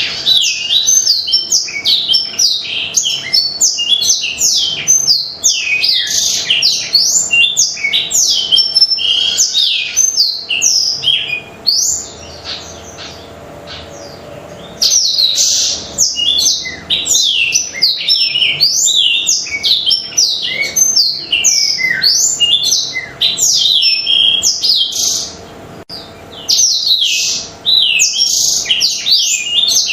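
Blackthroat (black-throated canary) singing in long, fast runs of high chirps and trills, with a pause of about three seconds near the middle and a shorter break later.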